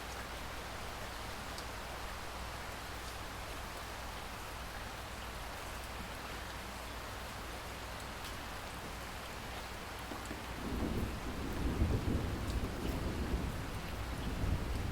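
Steady rain falling. About ten seconds in, a low rolling rumble of thunder builds and carries on under the rain.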